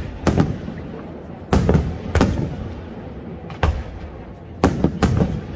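Aerial firework shells bursting overhead: about eight sharp bangs at uneven intervals, some in quick pairs, each trailing off in a short echoing rumble.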